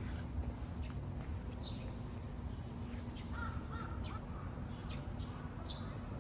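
Birds calling a few times, short separate calls, over a steady low background rumble.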